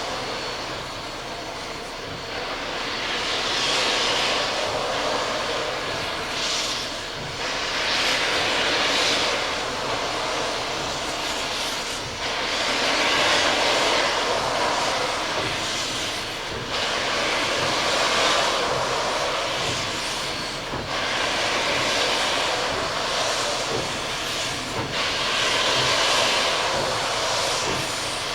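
Locomotive at work: a steady rushing noise that swells and eases every two to four seconds.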